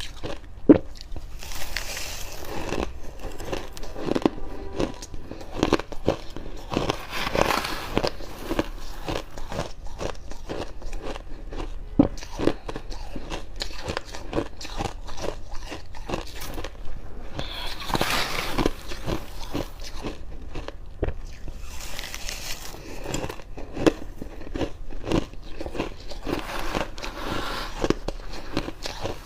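Close-up biting and chewing of fluffy freezer frost: dry crunches with dense crackling clicks, and a louder bite every few seconds.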